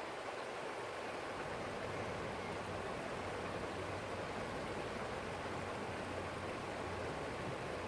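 Forest stream flowing in a steady, even rush of water, with a faint low hum underneath.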